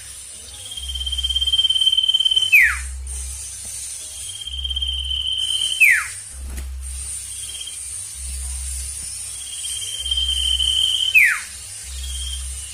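Sirtu bird in full breeding condition calling: a level high whistle held for a second or so, ending in a quick falling whistle, repeated about every three seconds.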